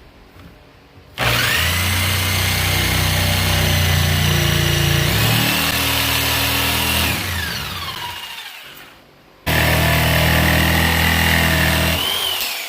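Electric power saw cutting through 1-inch mahogany, a hardwood that is hard to cut. It runs in two bursts, each starting suddenly with a steady motor whine and then winding down, the first about seven seconds long and the second about three.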